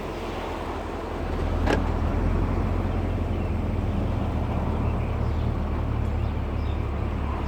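2016 Chevrolet Camaro on the move, a steady low drone of engine and road noise that rises about a second in, with one sharp knock about two seconds in: the rear-wheel clunk, which the dealer traced to a loosely mounted brake shoe.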